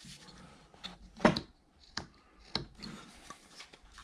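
Carving knife blade slicing into a wooden carving in short, sharp cuts, the loudest about a second in and a few lighter ones after.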